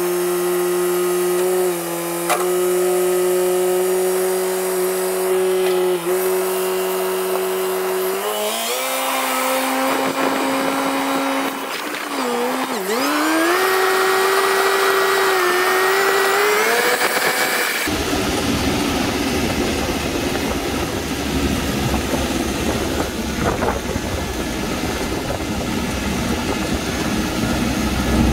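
TYM T574 tractor's diesel engine running: its pitch steps up about a third of the way in and climbs again as the engine revs up. About two-thirds of the way in, the sound changes suddenly to a dense, low rumble.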